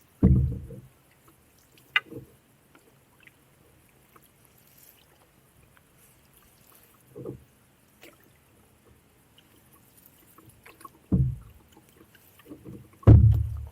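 Canoe being paddled: a low thud or swish every few seconds as the paddle works the water and knocks against the hull, loudest just after the start and near the end, with a sharp click about two seconds in.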